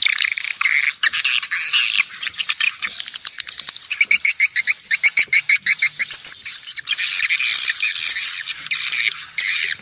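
Swiftlets twittering: a dense chorus of high chirps and quick trills with many sharp clicks among them, and nothing heard below the high register. It is a swiftlet call recording of the kind played to lure the birds.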